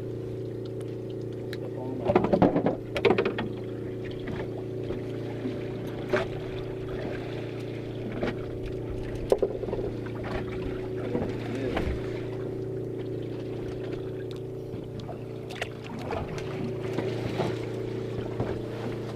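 Boat engine running steadily at a constant pitch, with a few short knocks and clatters on board.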